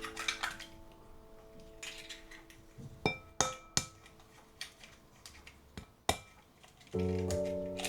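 Kitchenware clinking: a handful of sharp, irregular clinks and knocks of utensils against glass and dishes. Soft piano music fades out early and comes back near the end.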